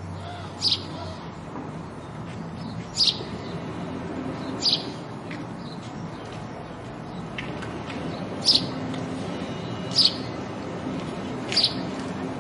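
House sparrow chirping: single short chirps every one to four seconds, about six in all, over a faint steady low hum.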